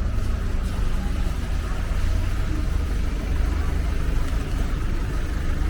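Steady city street noise: traffic running past with a deep, constant rumble underneath.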